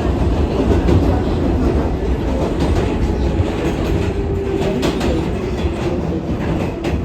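R188 subway car running along the track: a steady low rumble of steel wheels on rail, with repeated clacks at the rail joints and a faint steady whine in the middle.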